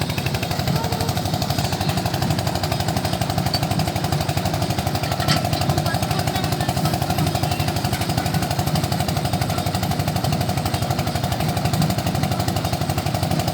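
Tractor diesel engine running steadily, a fast, even chugging with no change in speed.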